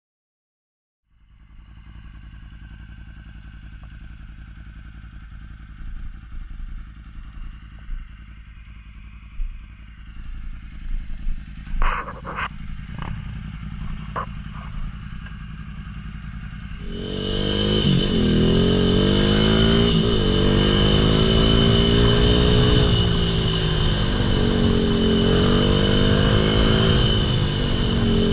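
Ducati Monster 1100cc snowbike's V-twin engine idling steadily, with a few clattering knocks partway through. Past the halfway point it gets much louder and its pitch rises and falls with the throttle, under a steady high whine.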